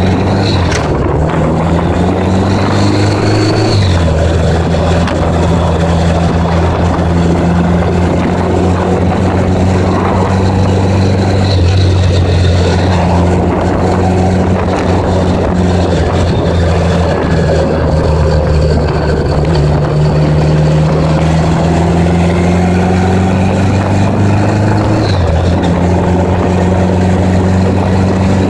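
A 1980s Honda Gold Wing motorcycle engine running under way over a steady rush of noise, its pitch dropping in a step about four seconds in as it shifts up a gear, then holding fairly steady with a further shift near the end.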